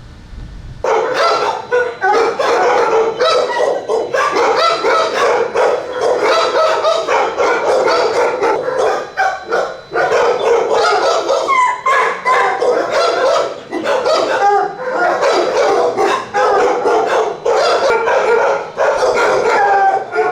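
Many shelter dogs barking and yelping at once in a kennel, a dense, continuous din that starts abruptly about a second in.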